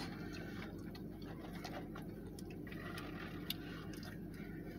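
Steady low hum of a car's air conditioning running, heard inside the cabin, with scattered small clicks and rustles of food being handled and one sharper click about three and a half seconds in.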